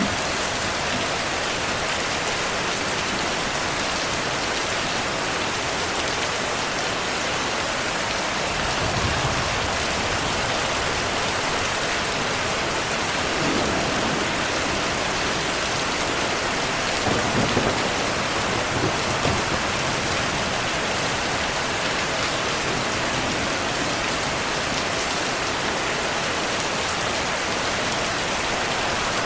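Steady heavy rainfall hissing, with thunder rumbling low twice: once about nine seconds in and more strongly a little past the middle.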